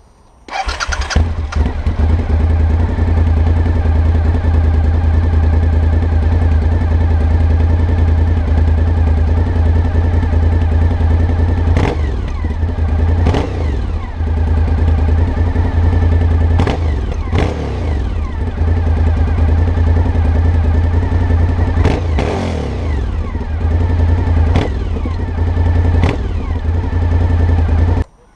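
Suzuki SV1000's V-twin engine breathing through an IXIL XOVS aftermarket exhaust: it fires up, settles into a loud, deep idle, then takes about eight sharp throttle blips in the second half, each falling back to idle, before being switched off abruptly near the end.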